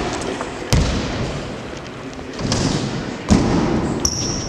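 BMX bike riding skatepark ramps: two heavy landing thumps, about a second in and just past three seconds, with tyre rolling noise between, and a short high squeak near the end.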